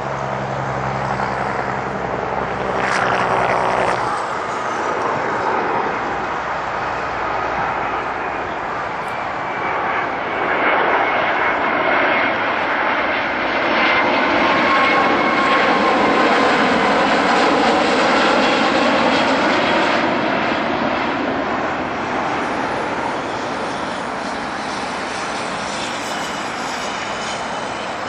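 Boeing 757-223 jetliner passing on its landing approach: the rush of its Rolls-Royce RB211 jet engines swells to a peak about halfway through, with a wavering whine over it, then slowly fades.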